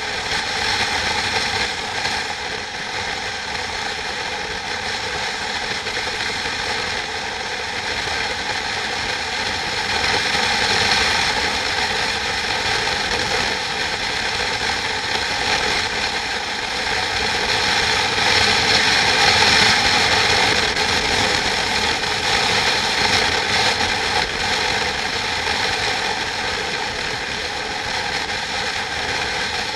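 Steady mechanical running noise: a constant drone with several fixed tones over a dense rattle, swelling slightly a few times without stopping.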